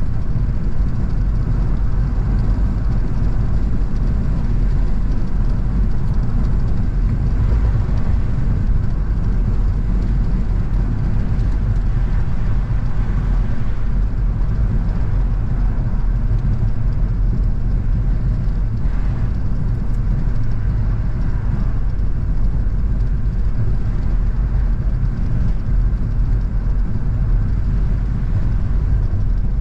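Car driving at steady speed: engine and tyre road noise make a constant low rumble with no change in pace.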